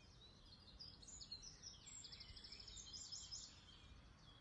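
Faint birdsong: scattered high chirps and a quick trill about two seconds in, over a low, steady background rumble.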